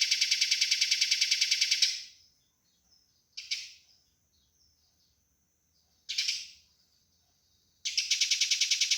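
Eurasian tree sparrow calls: a fast, even chattering rattle of about ten notes a second, the agitated call of sparrows fighting. The rattle breaks off about two seconds in for a pause broken by two single chirps, then starts again near the end.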